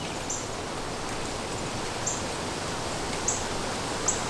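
Steady rush of wind on the microphone, with a few faint, short, high chirps about a second or so apart.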